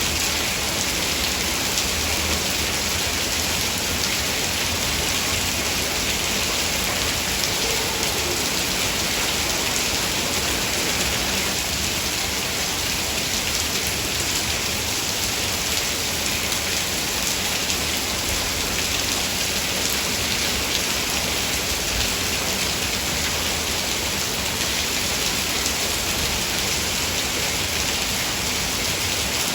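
Heavy rain falling steadily: a dense, even hiss of countless drops with no break or change.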